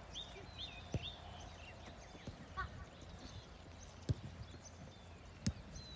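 A football being kicked, three sharp knocks spread across a few seconds, while a bird chirps repeatedly with short, high, downward notes, mostly in the first half.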